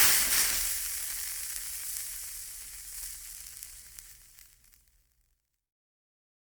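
A hissing, crackling noise that starts loud and fades away over about four and a half seconds.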